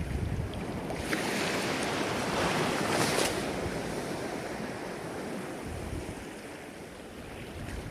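Ocean waves breaking and washing up the shore. A wave's rush swells about a second in, is loudest around three seconds, then drains away and fades before the next one builds.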